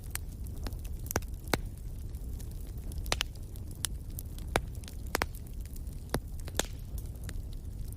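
Wood fire crackling in a fireplace: sharp pops and snaps at irregular intervals over a steady low rumble of the flames.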